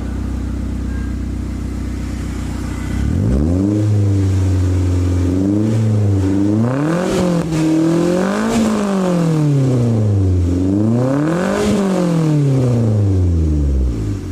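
Toyota Avanza engine idling, then revved repeatedly. From about three seconds in, the pitch climbs and falls back in several sweeps, highest about halfway through and again near the end, before settling back down.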